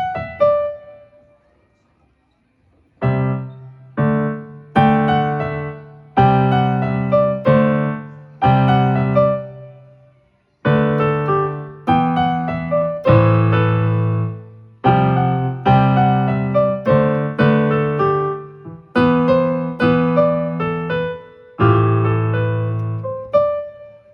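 Electronic keyboard on a piano sound, played by a beginner: slow block chords with a bass note and a melody note on top, each struck and left to fade, about one a second. The playing stops twice, briefly near the start and again about ten seconds in.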